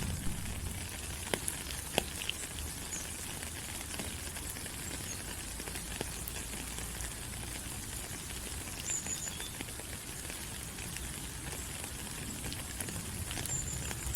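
Steady tropical rain falling on forest leaves: an even hiss with many sharp drops and drips, a few louder ones in the first couple of seconds. Two faint short high chirps sound near the middle and near the end.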